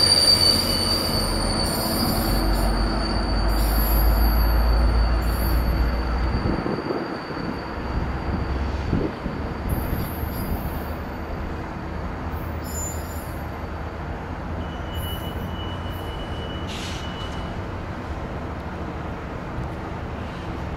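Diesel push-pull commuter train's bilevel passenger cars rolling past and pulling away: a steady rail rumble with high wheel squeal for the first few seconds. The sound slowly fades as the trailing cab car recedes, with a brief faint squeal again later on.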